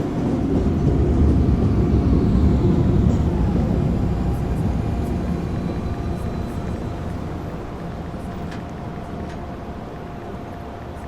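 Subway train running, a low rumble that swells over the first few seconds and then slowly dies away, with a faint falling whine about three to four seconds in.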